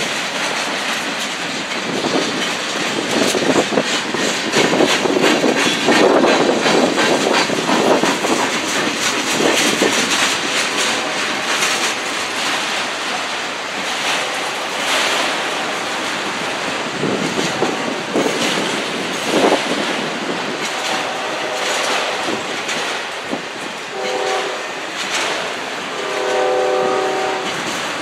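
Freight train of autorack cars rolling past close by: a steady rumble with wheels clacking over rail joints. Near the end a train horn sounds a few short times over the rolling noise.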